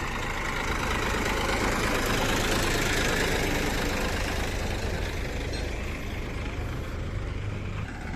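Heavy vehicle engine running steadily, swelling a little a few seconds in, then settling back.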